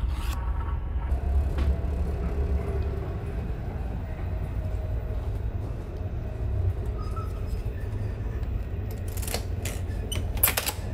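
Steady low rumble of a train running, heard from inside the carriage. A few sharp clicks come near the end as a door lever is worked.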